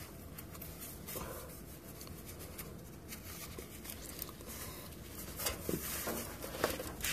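Faint rustling, scraping and a few light clicks and knocks of parts being handled, with no single loud event.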